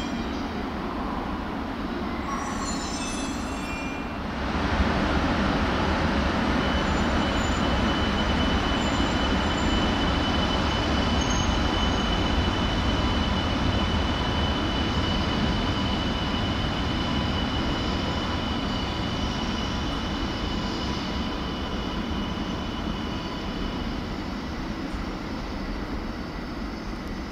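Joetsu Shinkansen train running through the station: a steady rumble of wheels and running gear with a thin high whine. It swells about four seconds in, then slowly fades over the second half.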